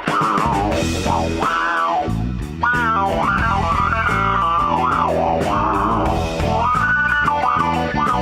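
A rock band playing an instrumental passage: an electric guitar plays a lead line with bent, gliding notes over bass guitar and drums. The low end drops back briefly about two and a half seconds in, then the full band comes back in.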